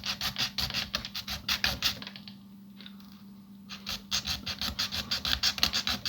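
A hand file rasping along the edge of a piece of styrene plastic sheet in quick back-and-forth strokes, straightening a cut edge. The filing stops for about a second and a half midway, then starts again.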